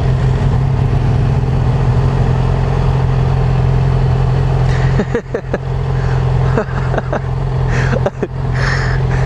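Motorcycle engine running steadily, heard from the rider's position with wind noise on the microphone. In the second half the sound turns choppy, with short dips and knocks.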